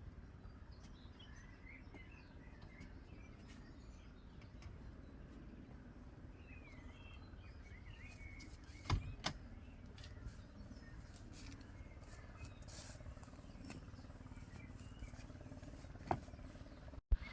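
Small birds chirping on and off over a faint, steady low outdoor rumble, with two sharp knocks close together about nine seconds in and another near the end.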